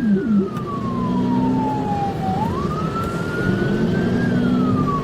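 Police car siren in wail mode: a tone that falls slowly, rises again over about two seconds, and starts falling again near the end. A second, faster warbling tone stops about half a second in.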